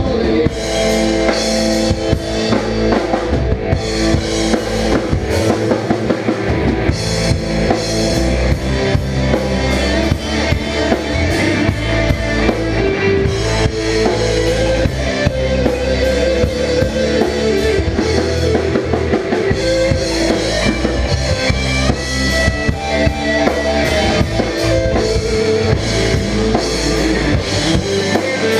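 Rock band playing an instrumental break with no singing: a steady drum-kit beat under guitar and bass.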